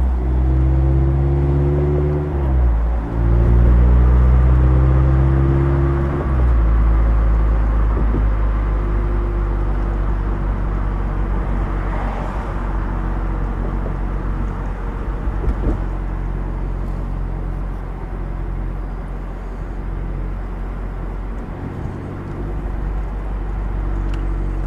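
2016 Mazda MX-5 Miata's four-cylinder engine through a Goodwin Racing RoadsterSport race exhaust, heard from the driver's seat while driving. It shifts up twice in the first six seconds, then holds a steady cruise without drone.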